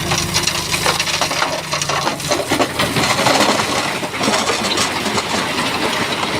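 Rock clattering and grinding as a Shantui bulldozer pushes stone fill: a dense, continuous run of knocks and scrapes. The dozer's engine is heard low underneath during the first couple of seconds.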